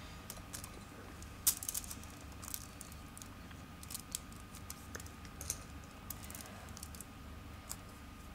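Scattered light clicks and taps of sweets and small decorations being handled and placed on a cake, the sharpest about a second and a half in, over a faint steady hum.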